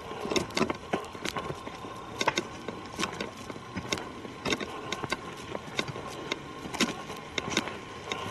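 Footsteps crunching on a forest trail, irregular sharp crunches about one to two a second.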